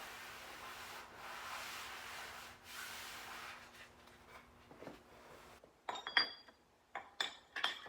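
Rubbing and scraping over sheet metal for several seconds, then a handful of sharp metallic clinks and taps with a short high ring near the end, as tools or metal parts are handled.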